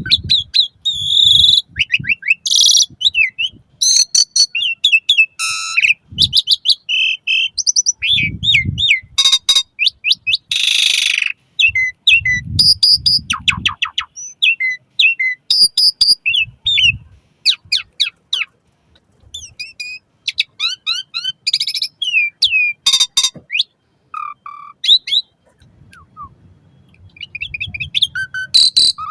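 A jalak suren (Javan pied starling) singing a long, varied song of rapid whistles, chirps and trills mixed with harsh, scratchy screeches, broken by a couple of short pauses.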